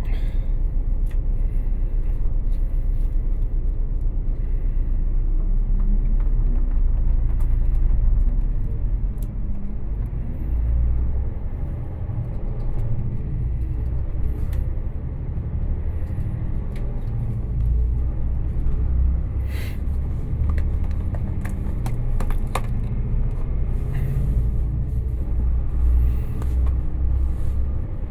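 Low, steady rumble of a passenger train heard from inside the carriage, with scattered short clicks and knocks, one sharper knock about two-thirds of the way through.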